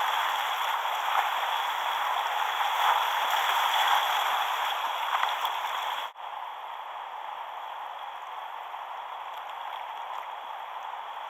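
Moving river water running steadily around a kayak. About six seconds in it cuts off sharply and comes back quieter.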